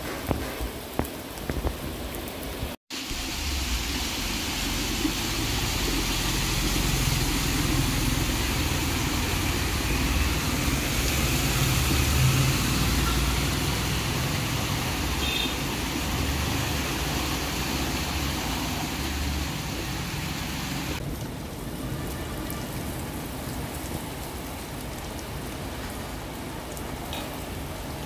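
Heavy rain falling in a steady hiss. After a brief dropout about three seconds in, a low rumble of a small goods truck's engine and its tyres splashing through rainwater on a flooded street join the rain, fading later.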